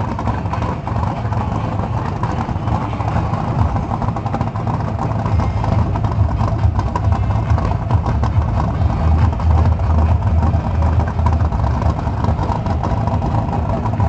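A vehicle engine running steadily with a low hum, growing a little louder in the second half.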